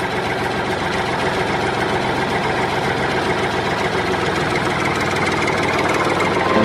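Engine idling with a fast, steady chugging.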